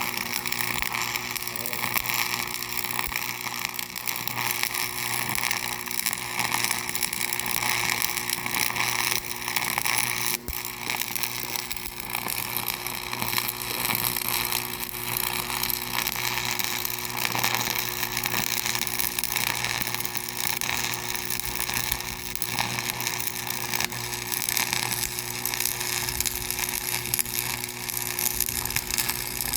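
Steady machinery running without a break: a constant hum under a loud, even hiss.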